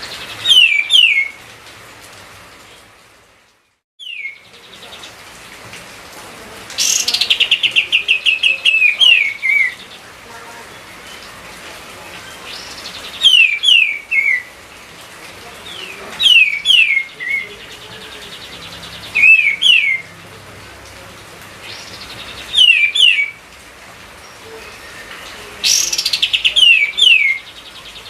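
Kapas tembak bulbul singing: short phrases of two or three quick downslurred whistles, repeated every few seconds, some opening with a fast chattering trill, over a steady hiss. The sound cuts out briefly about three seconds in.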